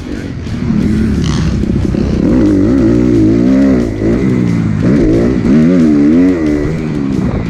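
Kawasaki KX250F dirt bike's four-stroke single-cylinder engine being ridden, its revs rising and falling over and over as the throttle is worked, with a short drop in revs about four seconds in.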